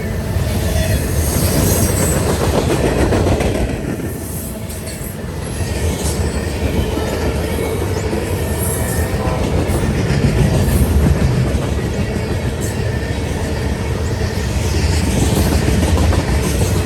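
Train passing on the tracks: a steady, loud rumble with the wheels clattering over the rails.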